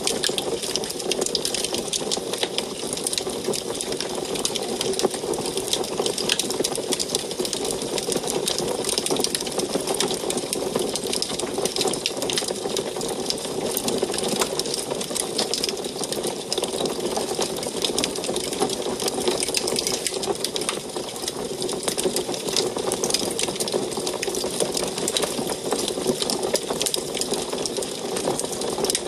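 Wood fire burning in an antique wood stove, crackling steadily with a dense run of small pops and snaps over a soft hiss.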